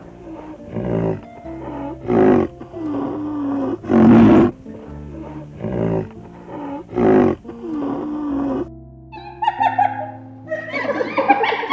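Repeated loud animal roars, about one every second and a half, over steady background music. Near the end, shorter, higher-pitched calls take over.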